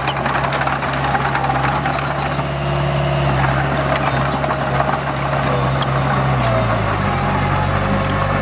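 Heavy diesel engine of earthmoving equipment running steadily under load, with scattered metallic clicks. About six and a half seconds in, the engine note drops, then it climbs back up near the end.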